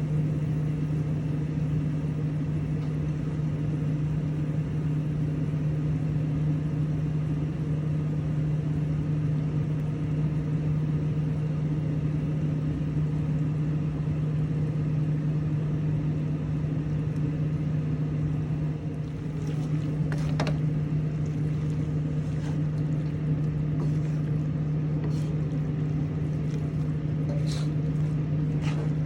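A steady low mechanical hum with evenly spaced overtones over a haze of noise, like a motor or fan running. A few sharp clicks and knocks come in the last ten seconds.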